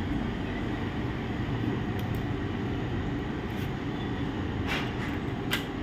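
Steady low background hum with a few faint clicks, as of small plastic parts being handled.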